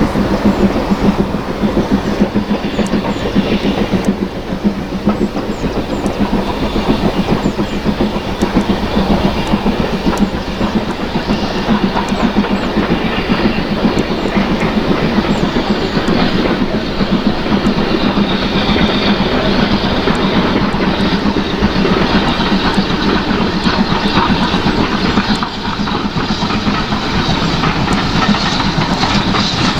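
A train running past, its wheels clattering over the rail joints, with a steady low hum underneath throughout.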